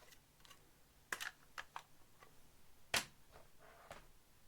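Stacks of trading cards being moved and set down on a table: scattered light clicks and taps, the sharpest about three seconds in.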